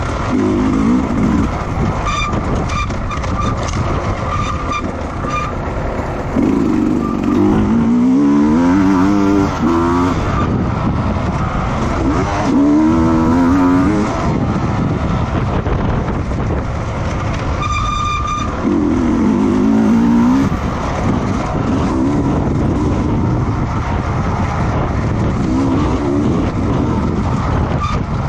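Racing motorcycle engines passing at high revs several times, their pitch rising and falling as they go by and change gear. A brief high beep-like tone sounds near the start and again about two-thirds of the way through.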